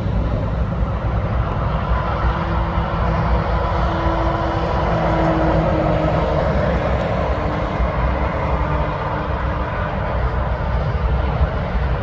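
Heavy truck driving past on a road: steady engine and tyre noise with a humming note that swells in the middle and fades again.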